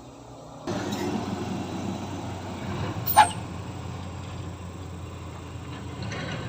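Heavy earthmoving machinery running, its engine noise coming in abruptly under a second in. A brief, sharp squeal about three seconds in is the loudest moment.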